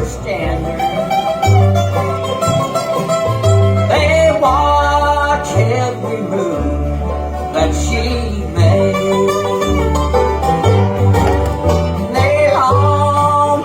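Bluegrass band playing live: acoustic string instruments over a steady, walking bass line.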